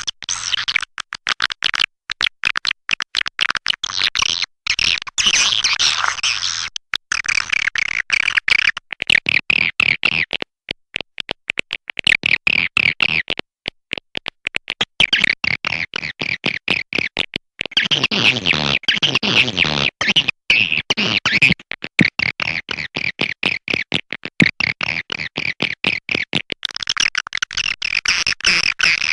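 Swiftlet lure call: a recording of dense, fast twittering and chirping from many swiftlets, choppy with rapid clicks and many very short breaks. It is the kind of call played in swiftlet houses to attract birds to roost and nest.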